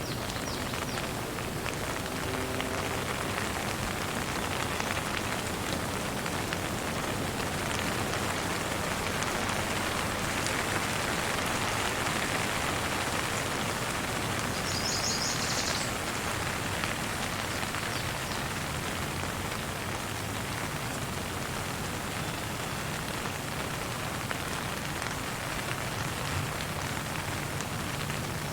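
Steady rain falling, an even hiss of drops, with a brief run of high bird chirps about halfway through.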